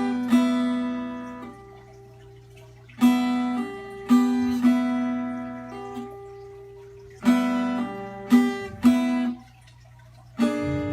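Acoustic guitar playing an instrumental passage: chords struck singly or in quick pairs, each left to ring out and fade before the next.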